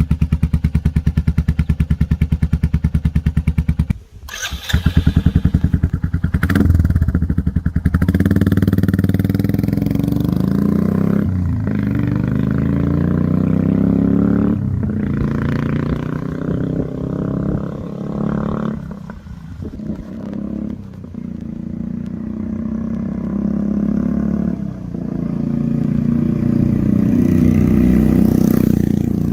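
Royal Enfield 350 single-cylinder engine through an aftermarket Indori silencer, idling with a steady 'duk duk' thump. About four seconds in there is a short break, then the throttle is blipped and revved again and again, the pitch climbing and falling between short drops.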